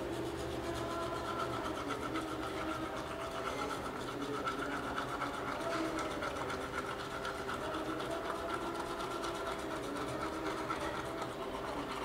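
Manual toothbrush scrubbing teeth in rapid back-and-forth strokes, a steady fast scratching.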